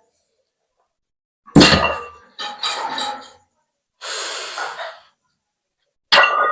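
A person breathing hard during exercise: four loud, forceful breaths at irregular intervals after a pause.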